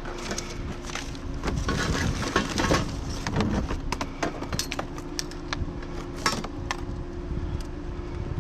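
Junk being rummaged through and handled: a run of clattering, clinking knocks of metal and plastic items, over a steady low hum.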